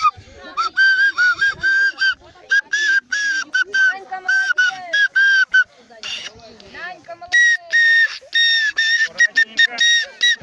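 A high-pitched whistle blown in quick, rhythmic short and held notes at a few different pitches, like a simple tune, with voices underneath.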